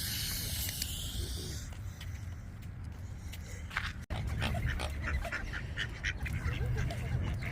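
Ducks quacking in the second half, over a steady rumble of wind on the microphone. A hiss runs for the first second and a half.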